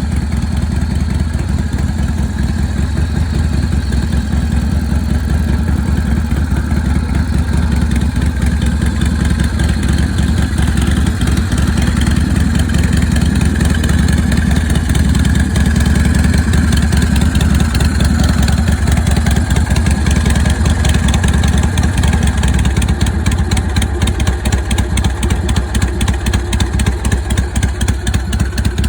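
Panzer Digger ST's 90 cubic inch Neopan Panhead-style V-twin idling steadily with an uneven, loping 'potato' beat. It is a little louder in the middle, and the separate firing pulses stand out more in the last several seconds.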